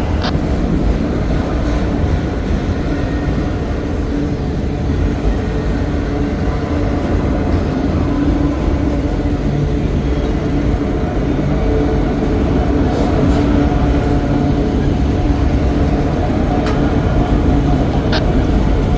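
Freight cars of a slow-moving CSX mixed freight train rolling past: a steady low rumble of steel wheels on rail, with a few short sharp clicks.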